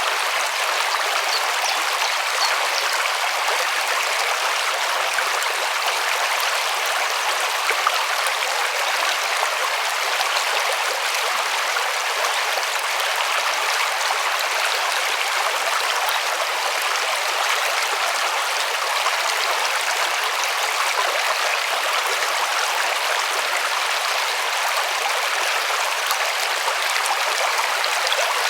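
River water rushing steadily over stones: a constant even hiss of flowing water.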